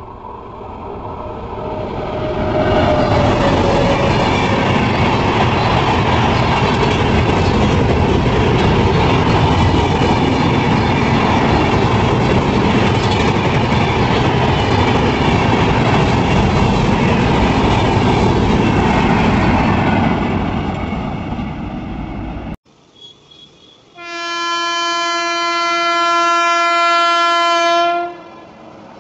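A train passing close by, its running noise and wheel clatter building over the first few seconds, holding, then fading after about 20 seconds. After an abrupt cut, a locomotive horn sounds one steady blast of about four seconds.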